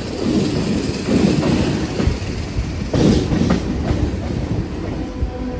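Mumbai suburban local train running, heard from on board the moving carriage: a steady rumble with sharp clacks and knocks from the wheels passing over rail joints and points.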